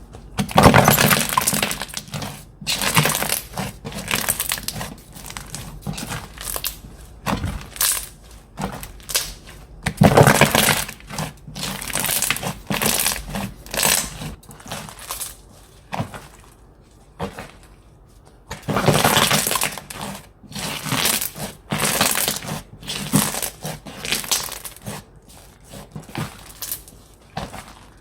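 Slime being squeezed, stretched and pressed by hand, crackling and crunching in repeated bursts with short pauses between.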